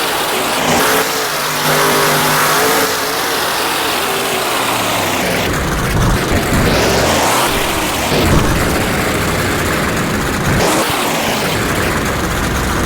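Monster truck engine running loud and revving, its pitch rising and falling in uneven surges.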